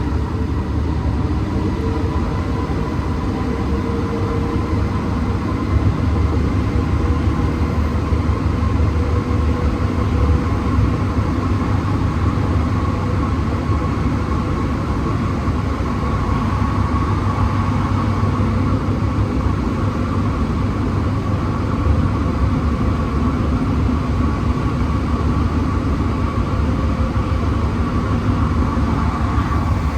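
Interior of an Alstom NS-16 rubber-tyred metro train running at speed between stations: a steady rumble with faint, steady whining tones.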